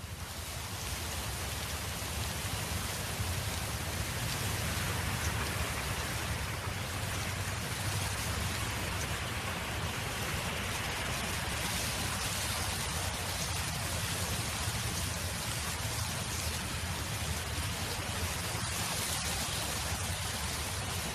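Wind blowing across an open field: a steady rushing hiss over a low rumble, fading in during the first second and then holding even.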